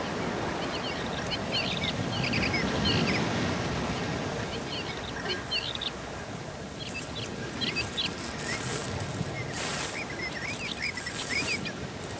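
Bird-like chirping: clusters of short, quick high chirps that come and go several times over a steady hiss, with a brief rustle about ten seconds in.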